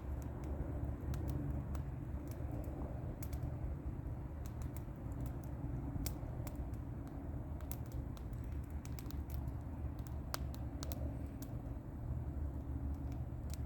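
Wood bonfire burning: irregular sharp crackles and pops over a steady low rumble.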